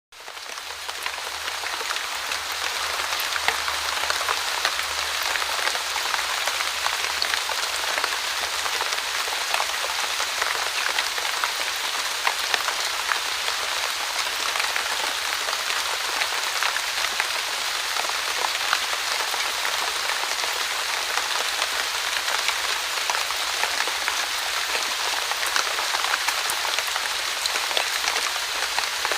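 Light, steady rain falling on a surface, an even hiss dotted with many small drop ticks, fading in over the first second or two.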